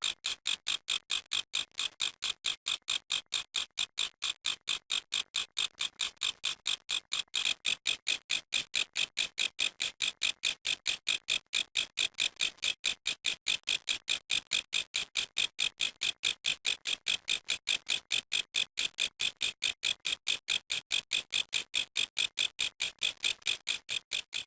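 Grasshopper stridulating: a steady run of evenly spaced, high-pitched chirps, about four a second, without a break.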